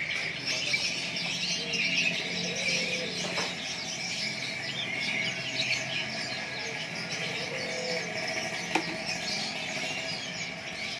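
Many caged songbirds chirping and trilling at once: a dense, continuous chorus of overlapping high calls.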